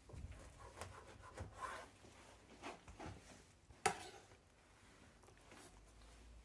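Knife cutting through a tray of siyalat pastry, giving faint scraping and rubbing sounds with a few soft knocks and one sharp knock about four seconds in.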